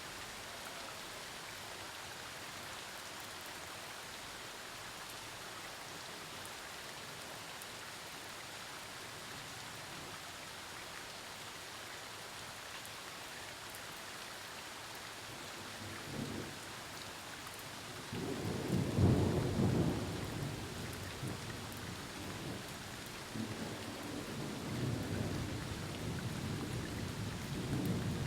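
Steady rain falling in a thunderstorm. Thunder begins with a short low rumble about two-thirds of the way through, then a loud peal a couple of seconds later that rolls on more quietly to the end.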